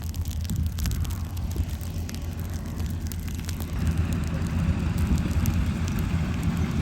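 Kubota 105 combine harvester running with a steady low diesel rumble that grows louder about four seconds in, with scattered light crackles.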